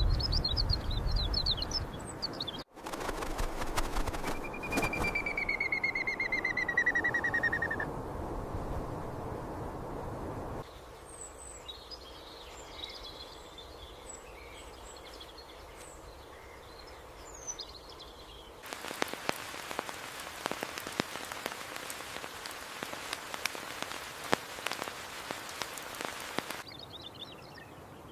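Small birds chirping, in a few short recordings joined by abrupt cuts. One stretch holds a falling trill lasting about three seconds, and another, later, is dense crackling noise with chirps faint beneath it.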